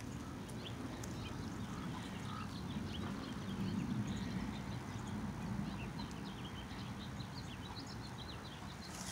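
Many small birds chirping faintly and irregularly in the trees, over a steady low rumble.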